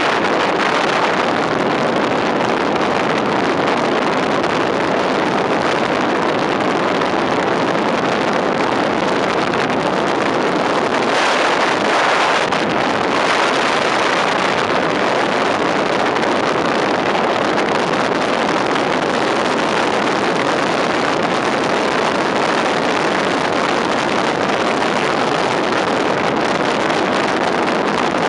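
Loud, steady wind noise from a car driving at speed, the rush of air buffeting the microphone over the road noise, briefly louder about eleven seconds in.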